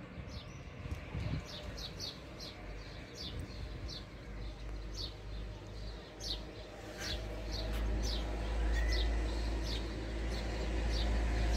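Small birds chirping, short high chirps about two a second, over a low rumble that grows louder after about seven seconds.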